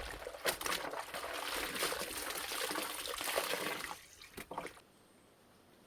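Water sloshing and splashing as clothes are rinsed by hand, with two last splashes about four seconds in, after which the water sound stops abruptly.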